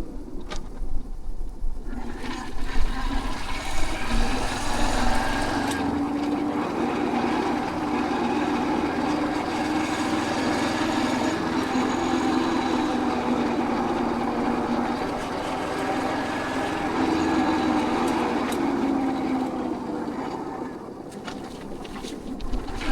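Royal Enfield Hunter 350's single-cylinder engine running steadily while riding. It picks up about two seconds in and eases off near the end.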